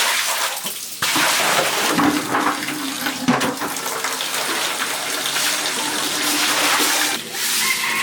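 Running, splashing water, with short breaks about a second in and near the end.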